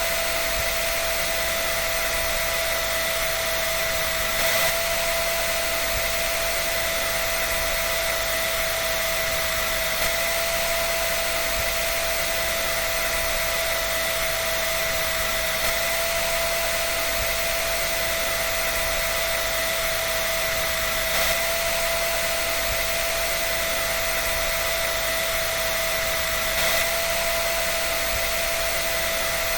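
Dryer running continuously: a steady, even hiss of moving air with a constant whine held at one pitch.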